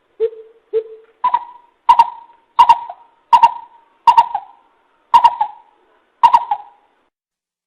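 Coucal (bìm bịp) calling: a series of nine short, hollow notes spaced about half a second to a second apart. The first two are low and the rest step up to a higher pitch.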